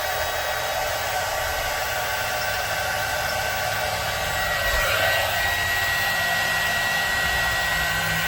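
Small electric heat gun running, its fan and heater giving a steady blowing whir. About five seconds in its pitch dips briefly, after which a steady high whine sits on top of the blowing.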